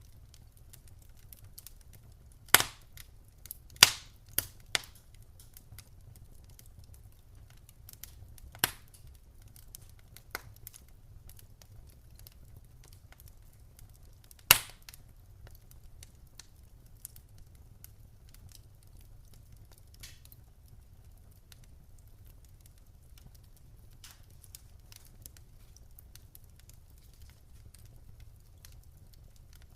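Wood fire crackling in a fireplace: scattered sharp pops and snaps from the burning logs, with a cluster of loud pops a few seconds in and another loud one about halfway, among many faint ticks over a steady low rumble.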